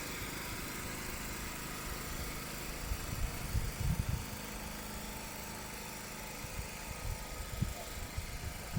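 An engine running steadily at idle, a low even hum, with a few short low thumps on the microphone.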